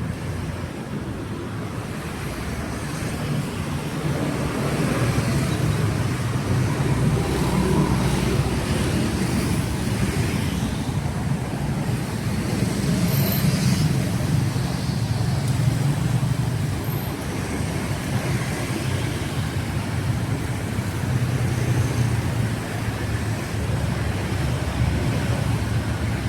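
Street traffic: engines of passing road vehicles making a continuous low rumble that swells a few seconds in and stays up through most of the stretch.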